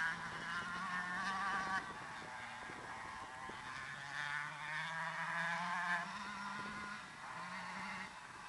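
A 125cc two-stroke motocross bike engine buzzing faintly, its pitch climbing as it revs up through the gears and then dropping off.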